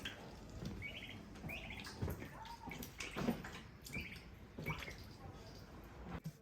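Small birds chirping: short high chirps repeating about every half second to second, with scattered light clicks and taps among them.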